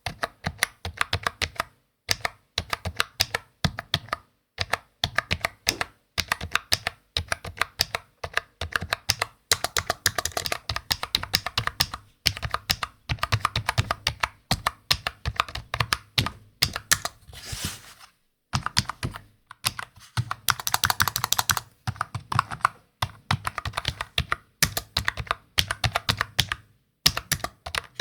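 Typing on a computer keyboard: quick runs of key clicks broken by short pauses, with a brief brushing sound and a pause a little past halfway.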